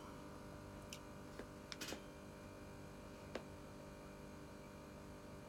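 Quiet room tone with a faint steady electrical hum and a few small sharp clicks, several about one to two seconds in and a sharper one past the middle.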